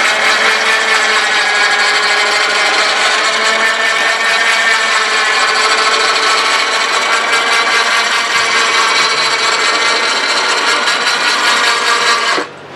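Truck lift's motor running steadily with a whining, many-toned hum as it raises a lawn mower, cutting off abruptly near the end.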